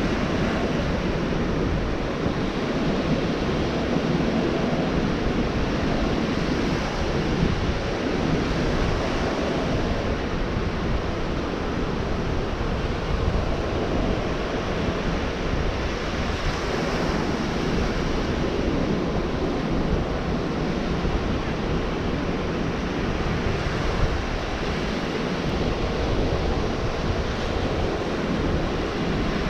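Ocean surf breaking and washing onto a beach, a continuous rushing wash that swells and eases gently, with wind buffeting the microphone.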